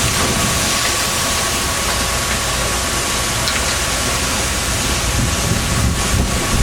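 Fishing boat under way: a steady engine drone mixed with rushing water and wind noise.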